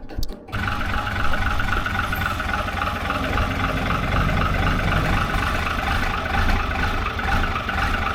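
A vehicle engine comes in suddenly about half a second in and then runs steadily at idle.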